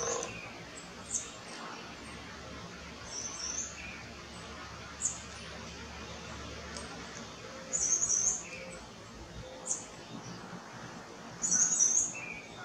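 Birdsong: short high-pitched twittering phrases about every four seconds, with single sharp chirps in between.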